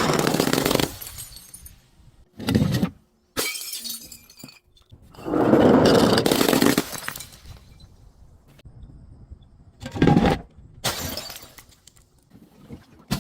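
Glass bottles being broken: a run of loud shattering, crunching bursts, the longest about five to seven seconds in, with smaller cracks and clinks between.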